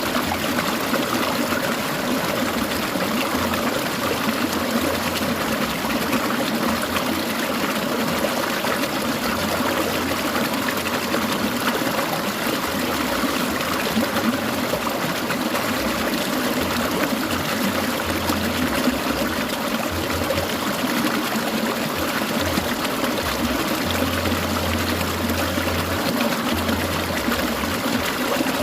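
Clear mountain stream babbling and trickling over rocks, a steady, unbroken rush of running water.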